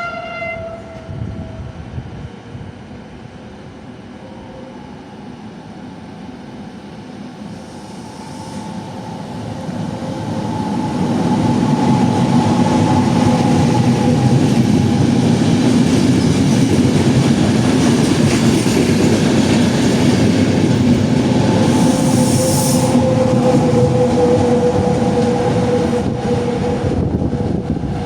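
A train passing through the station: the tail of a horn note fades in the first second, then the rumble of the train builds from about eight seconds in and stays loud and steady, with a few steady high tones over it, easing off near the end.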